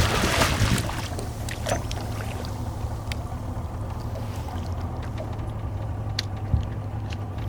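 A boat's motor idling steadily, with a few light clicks and knocks over it.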